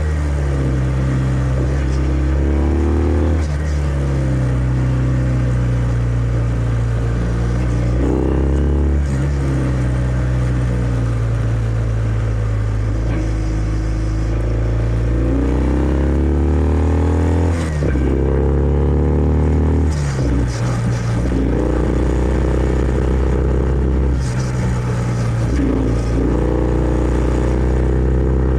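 Kawasaki W650's air-cooled parallel-twin engine running through its stock exhaust while riding: it rises in pitch repeatedly as it accelerates through the gears, with brief dips at each gear change, and settles into steady cruising between pulls.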